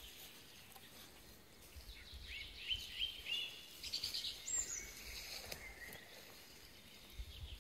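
A songbird singing: a run of short chirps and whistles between about two and five seconds in, over a faint low rumble.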